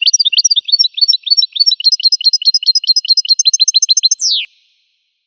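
Goldfinch singing: a rapid run of evenly repeated high chirping notes, about seven a second, ending in a quick falling note and then stopping abruptly.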